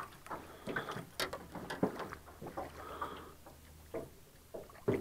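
Scattered small knocks, clicks and rustles of a just-caught small perch being handled aboard a jon boat, over a faint low hum.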